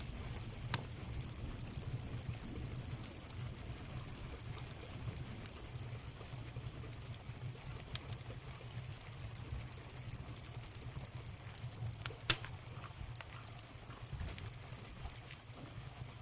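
Wood fire crackling in an outdoor stone fireplace: a steady low rushing with scattered small crackles and a sharp pop about a second in and another about twelve seconds in.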